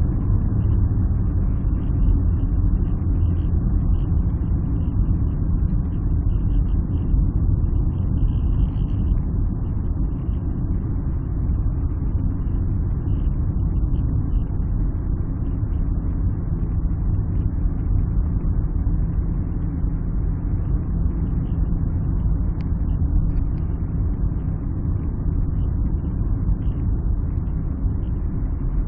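Alfa Romeo 156 under way, with steady engine and road noise heard from inside the car.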